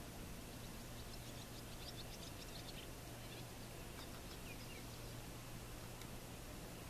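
Faint bird chirps and twitters in quick runs, with a short falling whistle near the middle, over a steady hiss and low hum.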